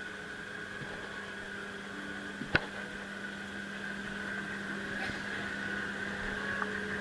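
The boat's engine idling at the wharf: a steady mechanical hum with a constant low tone. A single sharp click or knock about two and a half seconds in.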